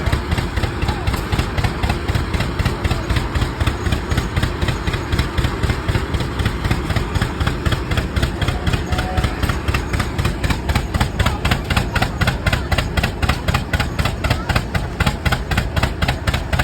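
Rumely OilPull tractors' slow-turning two-cylinder engines running with a steady, even exhaust beat of about four to five pulses a second while belted to a sawmill.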